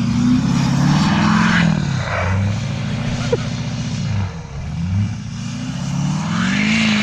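A truck engine revving hard while driving through deep snow. Its pitch climbs and falls, drops away about four seconds in, then climbs again near the end.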